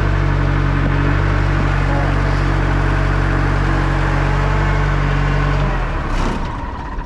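1967 JCB 3C Mk 2 backhoe loader's diesel engine idling steadily, then shut off about six seconds in, followed by a few knocks.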